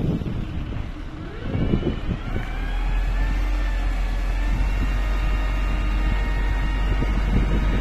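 A motor speeding up: its whine rises for about a second and then holds steady, over a heavy low rumble that sets in about two seconds in.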